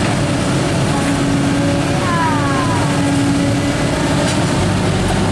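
Heavy vehicle engine running steadily, with a couple of short falling whines about two seconds in.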